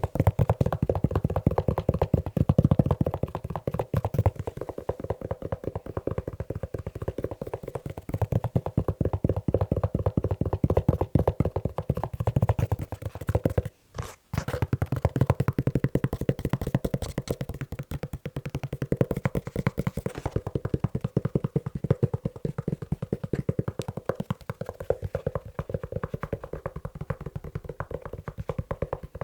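Fast, continuous tapping on a leather shoe: a dense stream of quick taps with a brief break about halfway through.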